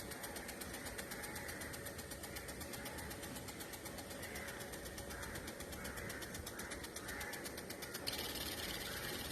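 Rain gun sprinkler running, its water jet hissing with a fast, steady ticking of several beats a second. The hiss of the spray gets louder about eight seconds in.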